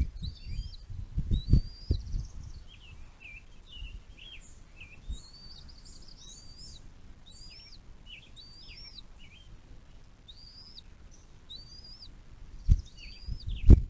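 Bird chirping over and over: a steady string of short, high chirps that rise and drop, several a second. Low thumps come in the first two seconds and again shortly before the end.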